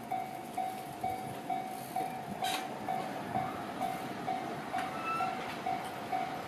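EF210 electric locomotive and its tank wagons moving off slowly: a low rumble with a sharp clank about two and a half seconds in and a lighter one near five seconds. Over it a ringing ding repeats about twice a second, the loudest sound.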